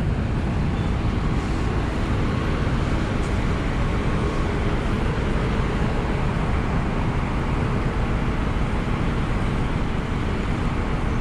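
Steady running drone of a Scania double-decker bus, with no separate events standing out.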